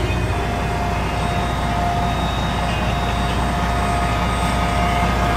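Diesel engine of a 2005 Freightliner Columbia semi-truck idling steadily with a low rumble.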